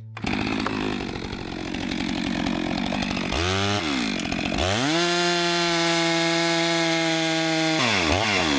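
Chainsaw starting up and running, then revved: its pitch drops and climbs, holds at high revs for about three seconds, then drops and climbs twice more near the end. It is cutting a log to length.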